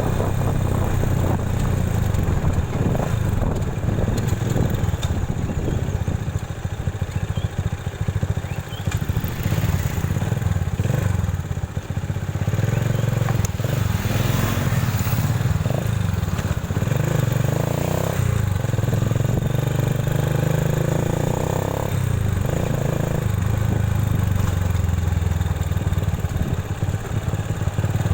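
Motorcycle running steadily while being ridden along a road.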